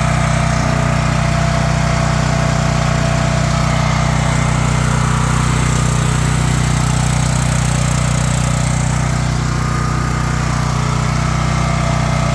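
Champion 9375 portable generator engine running at a steady, even speed. Its valves have been freshly adjusted after a rebuild that followed backfiring and failure to stay running.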